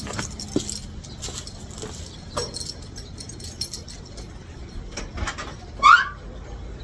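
Car keys jingling with light clicks, as at the ignition before a start, with no engine running yet. A short, rising squeak comes near the end and is the loudest sound.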